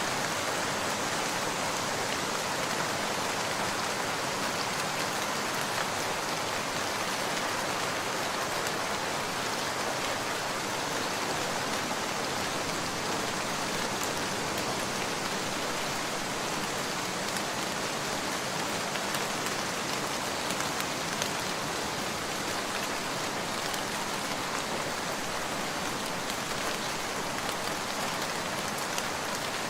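Steady rain falling, an even dense hiss with a few faint ticks of individual drops.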